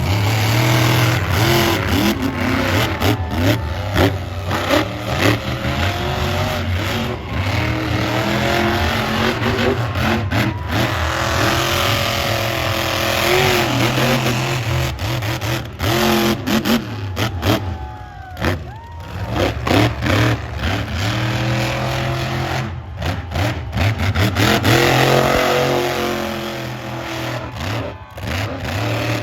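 Monster truck engine revving hard, its pitch climbing and falling over and over, with a couple of brief lulls as the throttle comes off.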